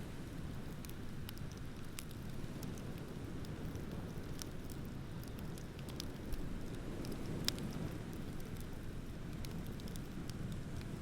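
Wood bonfire crackling, with scattered small pops and one sharper pop about seven and a half seconds in, over a steady low rumble of ocean surf.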